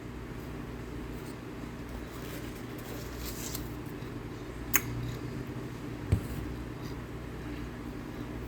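Quiet chewing of cornstarch, with a sharp click about halfway through and a short low thump a second later, over a steady low hum.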